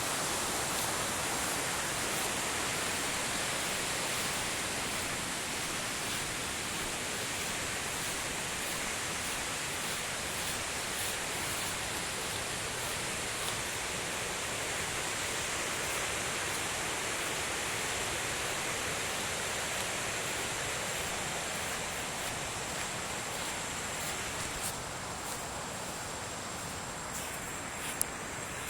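Steady rushing of river water, easing a little near the end, with a thin steady high tone above it.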